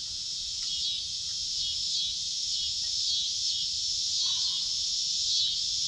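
Insects chirring in a steady high-pitched chorus that swells and dips in repeating waves, with a few faint ticks.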